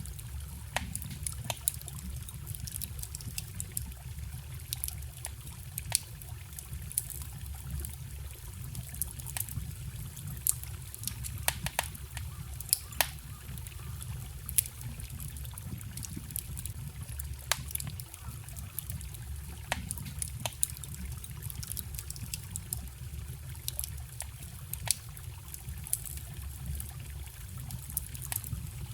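Wood campfire crackling with frequent irregular sharp pops, over the steady running of a forest stream.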